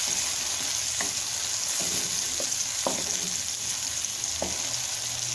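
Tomato purée sizzling in hot butter and oil in a metal pan, with a spatula stirring and scraping across the bottom of the pan several times, about once a second.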